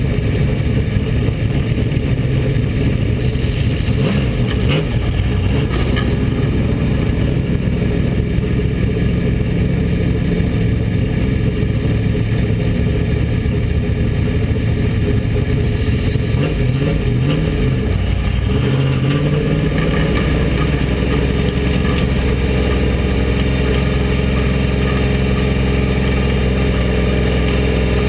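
Bomber-class dirt track stock car's engine running at low speed, heard from inside the car, with a wavering rev and a rise in pitch about two-thirds of the way through before it settles into a steady drone.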